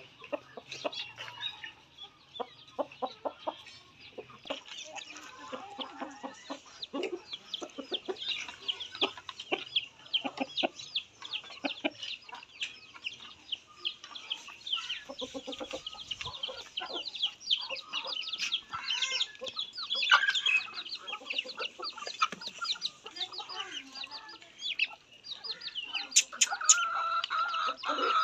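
Chickens calling: many rapid, high-pitched cheeps and clucks overlapping throughout.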